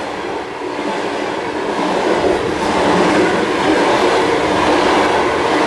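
A train passing by on the rails, the noise building over the first two seconds or so and then holding steady and loud.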